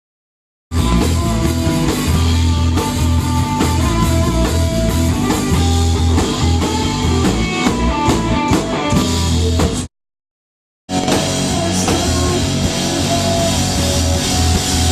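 Rock band playing loud, with electric guitar, drum kit and bass, in two stretches split by sudden cuts to silence, one right at the start and one about ten seconds in.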